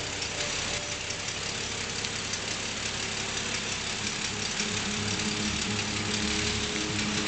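Car engine idling as the car creeps slowly forward, its low hum growing stronger near the end, over a steady hiss.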